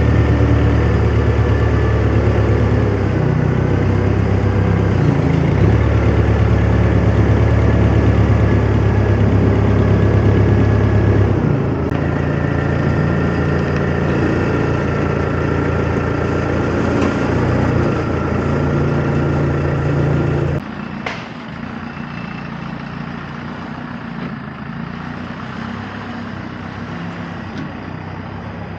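A vehicle engine running steadily at idle, its pitch shifting about a third of the way in. About two-thirds of the way through the sound drops suddenly to a much quieter engine hum.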